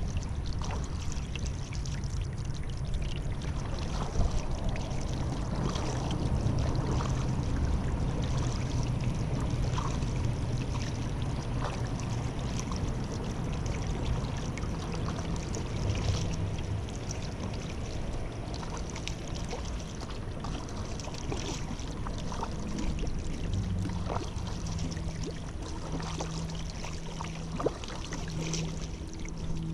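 Paddle strokes in river water: steady splashing and dripping from the paddle, with small splashes every second or two. About two thirds of the way through a low, steady hum joins in and breaks off and on.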